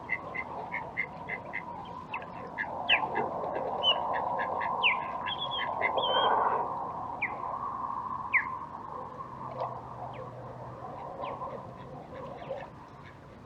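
Osprey calling: a run of short, high whistled chirps, about three a second, then a few sharper notes sweeping up and down, over a steady hum of distant traffic.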